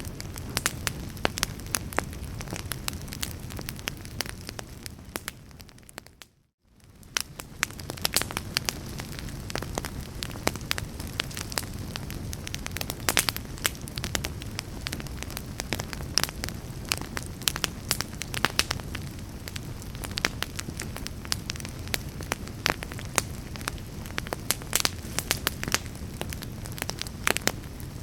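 Fire crackling in a fireplace: a dense run of sharp pops and snaps over a steady low rumble. The sound fades out briefly about six seconds in and fades back up within about a second.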